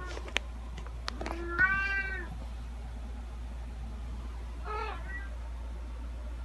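Domestic cat meowing twice: a loud, drawn-out meow about one and a half seconds in, and a shorter meow about five seconds in. A few sharp clicks come just before the first meow, over a steady low hum.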